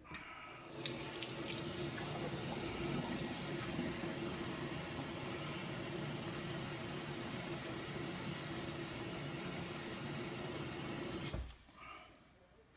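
Water running steadily from a tap with a steady hum in the flow, starting with a click and cutting off suddenly near the end as the tap is shut.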